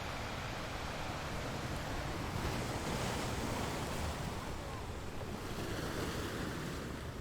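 Ocean waves surging on a shore: a continuous wash that swells about two seconds in and eases back toward the end, with some wind on the microphone.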